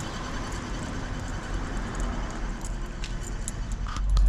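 BMW 745Li's V8 engine running at idle, with a faint, rapidly repeating high squeak over a low rumble. Near the end the sound cuts abruptly to a louder, duller rumble.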